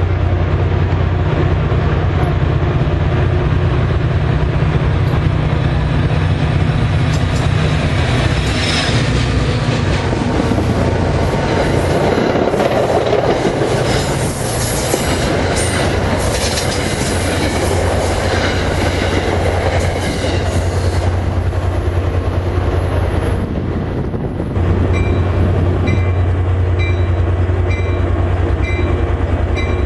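A train running through the station with wheels clattering over the rail joints, over the low rumble of a locomotive's engine. Near the end a repeated high ding starts at a steady pace.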